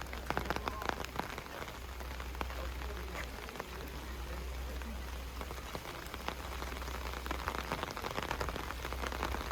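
Rain falling, with many separate drops ticking on nearby surfaces over a steady hiss.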